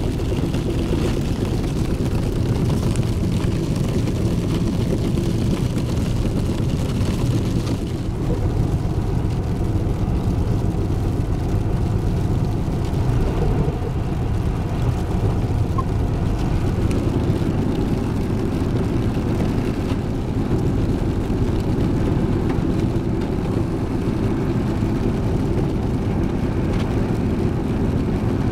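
Pickup truck driving on a snowy road, heard from inside the cab: a steady low engine and road drone.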